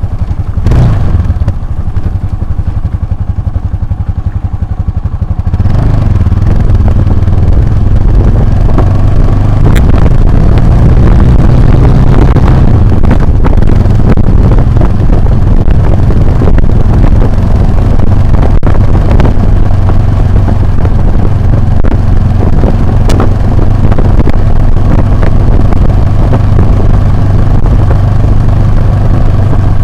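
Motorcycle engine running under way off road. It picks up and grows louder about five seconds in, then holds a steady heavy rumble, with a few sharp clicks.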